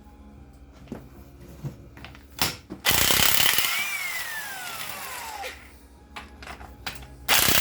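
Ingersoll Rand air impact wrench hammering on engine nuts in two bursts, one about three seconds in and another near the end. As each burst fades, the air motor's whine falls in pitch while it winds down. A few light metallic clicks come before the first burst.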